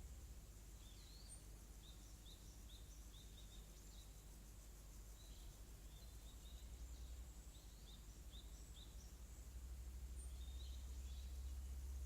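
Quiet rural evening ambience: a bird gives many short high chirps, over a steady high insect trill. A low rumble grows stronger about ten seconds in.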